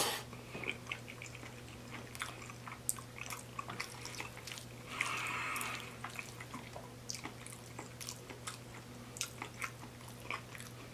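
Close-up mouth sounds of a person chewing cheesy spaghetti and garlic bread: soft wet smacks and small clicks, with a brief hiss about five seconds in. A faint steady low hum runs underneath.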